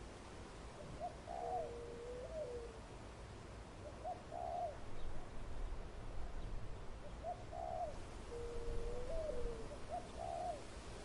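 Zebra dove cooing: groups of short, soft rising-and-falling coos with a lower, held note that bends downward, repeated three times.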